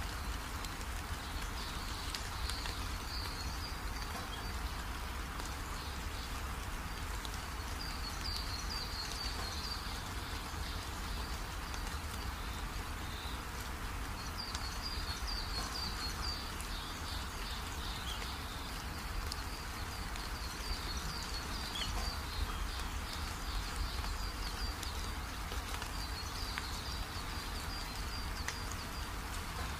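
Birds chirping in short repeated runs over a steady low background noise.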